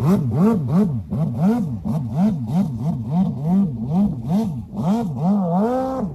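Sea-Doo jet ski engine blipped rapidly and over and over, about two to three rev cycles a second. Near the end it is held at high revs for a moment, then drops.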